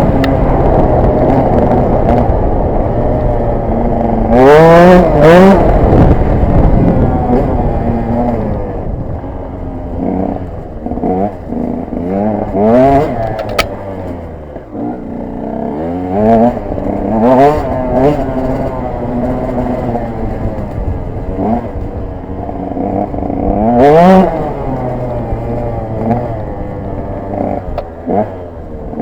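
KTM 125 EXC's two-stroke single-cylinder engine being ridden hard off-road, revving up sharply again and again, the pitch rising quickly with each burst of throttle and dropping back between. The loudest revs come about five seconds in and again near the end.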